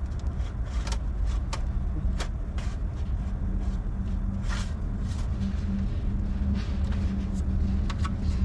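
A steady low engine-like hum runs throughout, with scattered sharp metallic clicks and taps over it.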